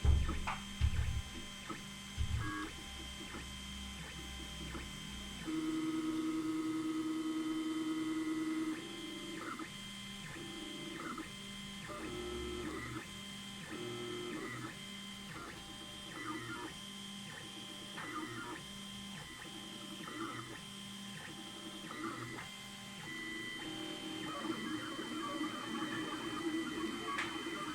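Stepper motors of an Anet A8 3D printer converted into a pen-drawing machine, whining through a series of moves. There is one long steady move of about three seconds, then many short start-stop moves. A few low knocks come in the first couple of seconds.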